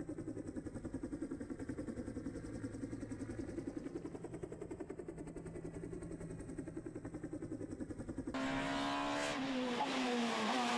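Rally car engine idling with a regular pulsing beat. About eight seconds in, an abrupt cut brings a louder engine under hard throttle, its pitch dipping and then climbing.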